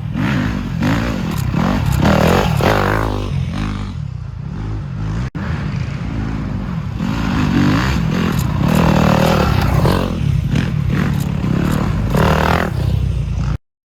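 Dirt bike engines racing, revving up and falling off again and again as riders work the throttle. The sound drops out briefly about five seconds in and cuts off abruptly near the end.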